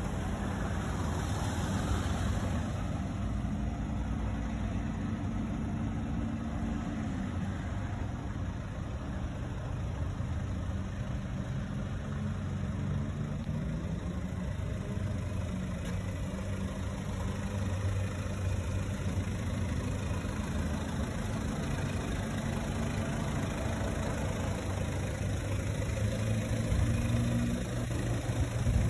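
Mazda 6's 2.2-litre Skyactiv-D four-cylinder turbodiesel idling steadily.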